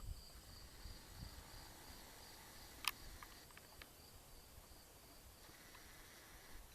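Quiet outdoor ambience with a faint, steady high insect trill, like crickets, and a single sharp click about three seconds in.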